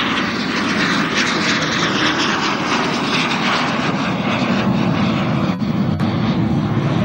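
L-39 Albatros jet trainers flying past, a loud steady rush of jet engine noise.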